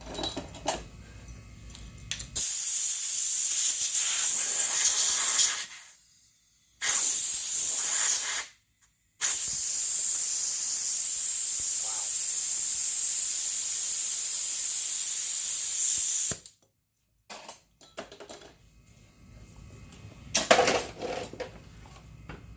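Compressed air blasting from a blow gun, a loud hiss in three bursts. The first lasts about three seconds, the second is short, and the third runs about seven seconds before cutting off suddenly.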